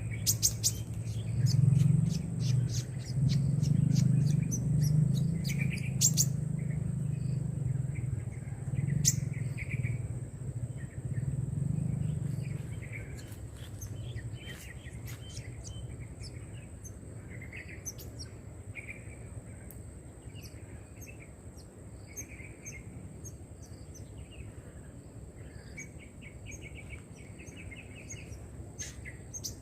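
Small birds chirping and calling again and again, with a quick trill near the end, over a steady thin high-pitched tone. A louder low rumble runs under the calls for the first dozen seconds, then fades.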